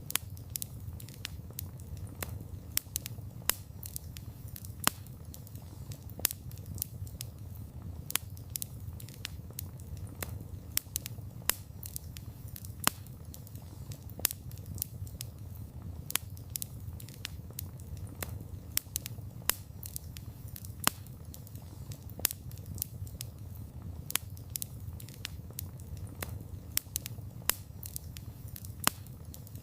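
Wood fire burning, with a steady low rumble and many sharp crackles and pops at irregular intervals, several each second.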